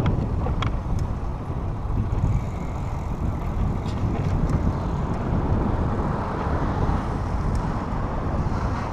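Steady, uneven low rumble of wind on the microphone and tyre noise while riding a bicycle, with a few faint clicks.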